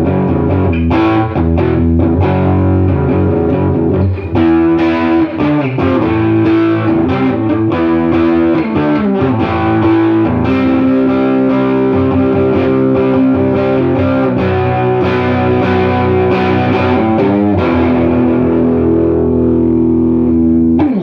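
Electric guitar played through a 1968 Fender Super Reverb tube amp, freshly recapped with new filter and cathode caps: picked notes and held chords ringing out, with a pitch sliding down right at the end.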